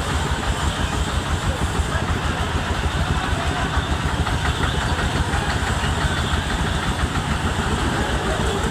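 A vehicle engine running steadily with a rapid low throb.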